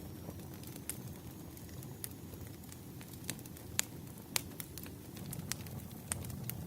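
Burning firewood crackling: irregular sharp pops over a low, steady rumble, with the strongest pops a little before and after the middle.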